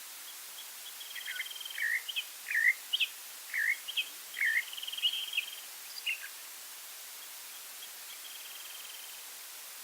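A songbird sings a run of slurred whistled notes mixed with rapid trills, from about a second in until about six seconds, with a fainter trill near the end, over a steady background hiss.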